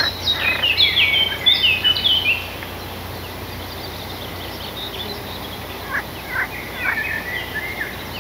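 Songbird singing in a meadow: a quick series of short, falling notes in the first two seconds or so, then a softer run of notes near the end, over a faint steady low background noise.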